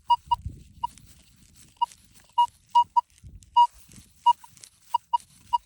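Metal detector beeping in short pips at one pitch, about a dozen, irregularly spaced and some in quick pairs, as it is swept over a freshly dug hole that still holds metal. Faint rustling of soil is heard underneath.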